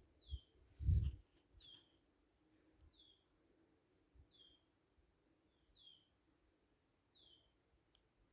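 A bird calling over and over in a steady rhythm: a short high falling note followed by a short level note, the pair repeating about every second and a half. A brief low thump about a second in is the loudest sound.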